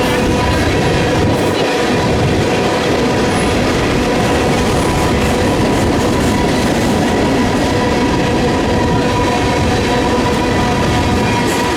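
Freight train rolling past at close range: a steady, loud rumble of wheels on rail, with a thin steady ringing tone above it.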